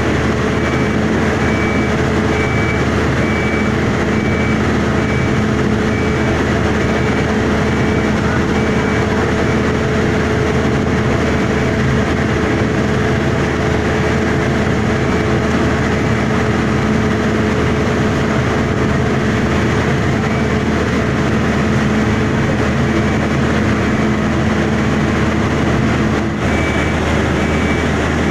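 Heavy boat-launching machine running steadily with a constant engine drone. A high warning beep sounds on and off near the start and again near the end.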